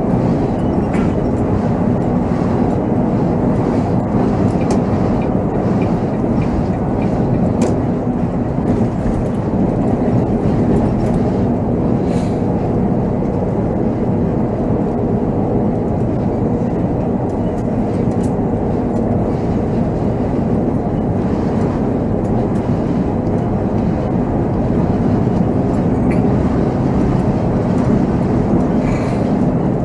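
Volvo B7R coach's diesel engine and road noise, heard from inside the cab while driving, a steady rumble with a held low engine tone and a few faint rattles and clicks.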